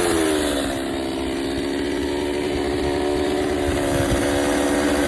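Two-stroke chainsaw engine dropping in pitch as the throttle is let off, then running steadily at the lower speed.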